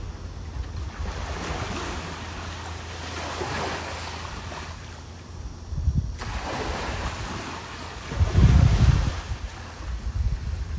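Ocean surf washing in, with wind buffeting the microphone. The wind comes in strong gusts about six seconds in and again around eight to nine seconds.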